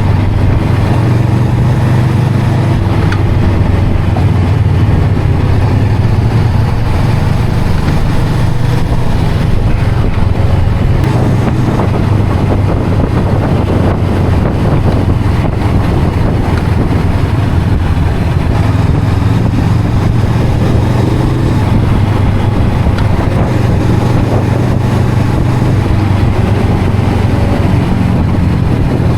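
Honda CL500's parallel-twin engine and exhaust running at a steady pitch, with no revving or gear changes.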